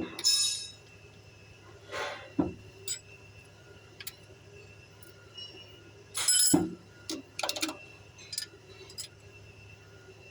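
Metal hand tools clinking and knocking against engine parts during valve adjustment: a handful of separate ringing clinks with pauses between, over a faint steady hum.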